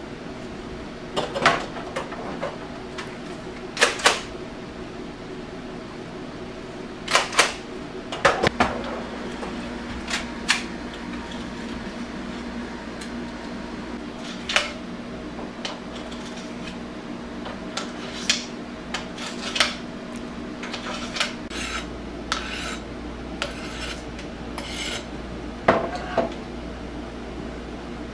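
Irregular clinks and clatters of small hard objects being handled, over a steady hum. Near the end come a few short scrapes.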